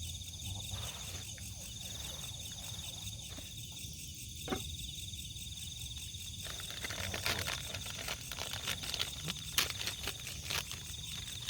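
Crickets trilling steadily at one high pitch over a low background rumble; from about seven seconds in, scattered clicks and rustling join them.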